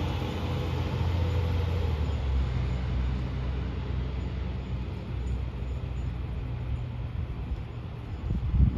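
Fire engine's diesel engine running with a steady low rumble that slowly fades, with a brief louder surge near the end.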